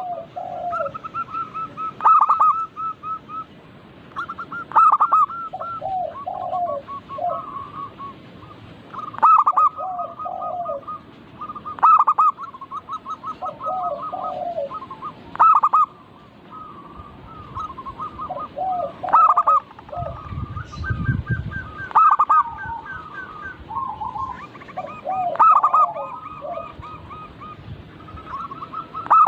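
Zebra doves (perkutut) cooing: repeated rolling phrases of quick, quavering notes. A new phrase starts every two to four seconds, and phrases from more than one bird overlap.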